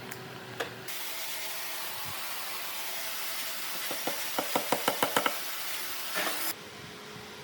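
A steady hiss, like air blowing, that starts about a second in and cuts off suddenly near the end. In the middle comes a quick run of about eight sharp knocks, roughly six a second.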